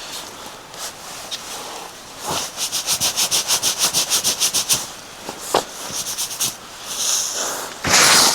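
A zipper being pulled in one long run of rapid ticks, about eight a second, then two short tugs. A loud rustle comes near the end.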